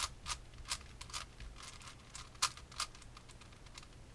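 Layers of a ShengShou 6x6 puzzle cube being turned by hand: quick, irregular plastic clicks and scrapes, about two or three a second.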